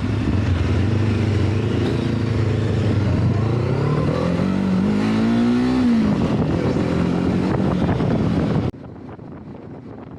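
Motorcycle engine running under way, pulling steadily at low revs, then revving up about four seconds in and dropping back two seconds later. Near the end the engine sound cuts off abruptly, leaving a quieter background.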